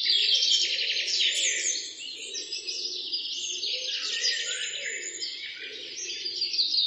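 Many small birds chirping and trilling at once in a dense, unbroken chorus of quick high notes.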